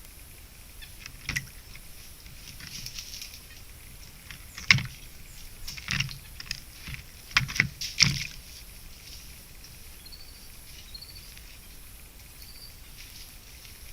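Outdoor forest ambience from a trail camera. Several sharp knocks and rustles come close to the microphone, loudest about five seconds in and a cluster around seven to eight seconds, over a steady high hiss. A few faint high chirps follow near the end.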